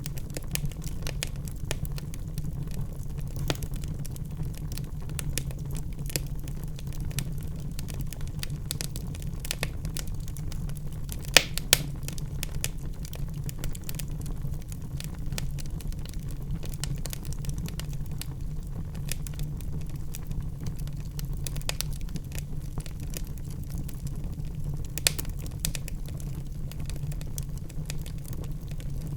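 Wood fire burning in a fireplace, crackling steadily over a low rumble, with sharper pops about a third of the way in and again near the end.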